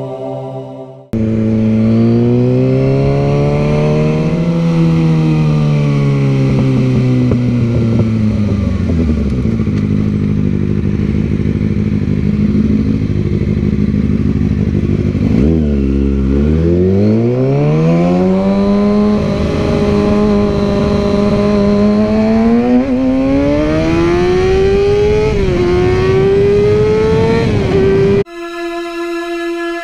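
Motorcycle engine under way, its pitch rising and falling with the throttle. It eases down to a low steady run, drops sharply once about halfway, then climbs steadily under acceleration with a brief dip near the end as it shifts. A wind rush runs underneath.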